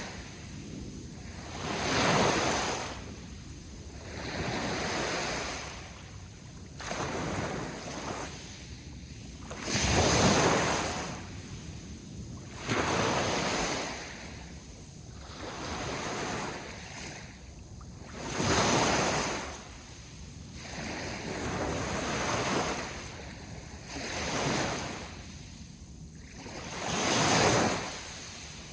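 Ocean waves breaking and washing in on a shore, one surge about every two to three seconds; a few of the surges are louder than the rest.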